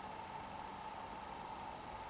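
Insects chirping: a fast, even, high-pitched pulsing trill, with a fainter steady whine lower down.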